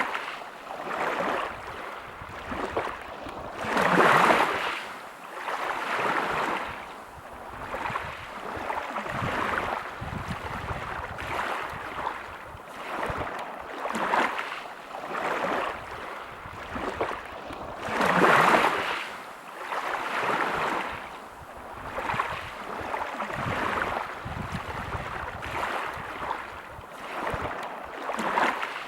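Sea waves breaking and washing over a pebble beach, swelling and fading every second or two, with two bigger waves, one about four seconds in and one past the middle.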